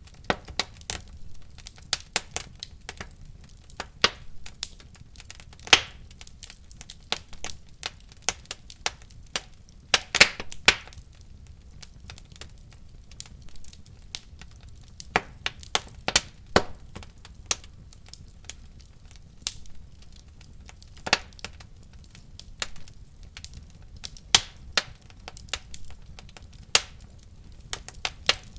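Wood fire in a fireplace crackling, with irregular sharp pops and snaps over a low steady rumble; a few louder pops stand out, one about six seconds in and another around ten seconds in.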